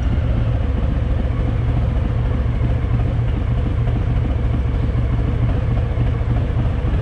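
Harley-Davidson Fat Boy's V-twin engine running at a steady, low, even beat with no revving.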